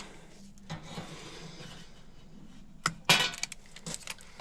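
Wire and small electrical parts being handled: a few sharp clicks and a brief crackling rattle a little after three seconds in.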